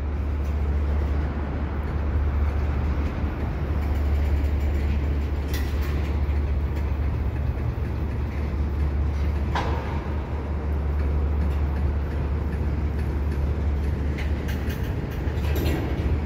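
Freight train of CSX hopper cars rolling slowly over a steel girder bridge: a steady low rumble, with a few sharp clicks now and then.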